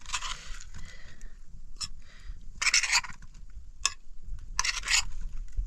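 A handful of short, irregular scraping noises, the loudest about three seconds in.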